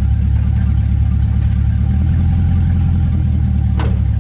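Truck running with a steady low rumble, and a single sharp click near the end.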